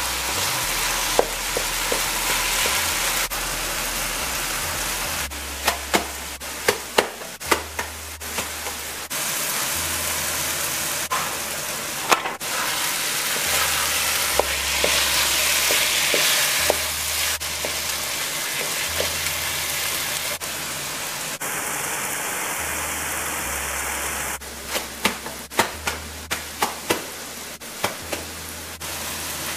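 Cubed pumpkin frying in oil in a wok: a steady sizzle as it cooks down with the lid off, stirred with a wooden spatula. Two runs of sharp taps, one a few seconds in and one near the end, break through the sizzle.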